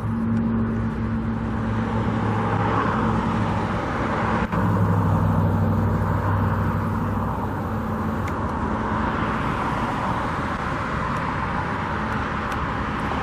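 Road traffic: vehicles passing, swelling and fading twice, over a steady low engine hum.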